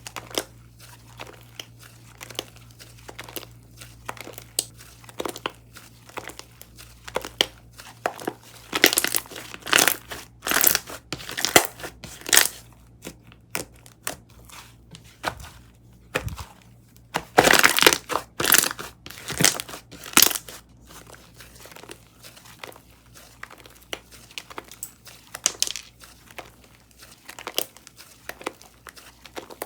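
Kokomo Slime's Vegan Green Caprese slime being worked by hand: stretched, folded and pressed, giving irregular crinkling, crackling pops. The pops come thickest and loudest in two spells, around nine to thirteen seconds in and again around seventeen to twenty seconds in.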